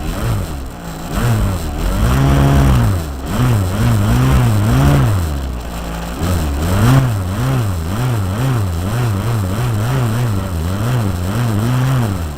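Model aircraft's O.S. .46 AX two-stroke glow engine running with an 11x7 propeller. Its pitch rises and falls about twice a second.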